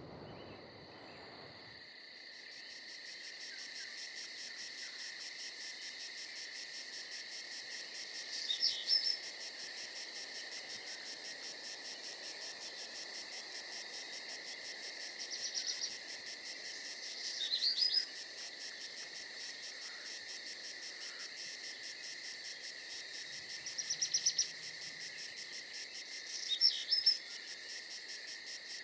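A steady chorus of crickets chirping in a fast, even pulse, with a louder, higher chirping trill breaking in briefly five times.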